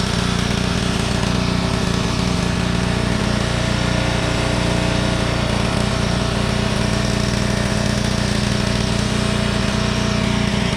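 Gas-engine pressure washer running steadily under load, the engine's hum mixed with the hiss of the spray.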